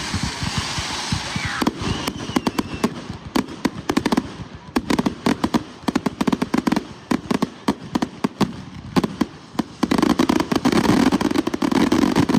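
Consumer fireworks going off in a rapid, dense run of crackling reports, with a short rising whistle about a second and a half in. The crackle thickens and gets louder near the end.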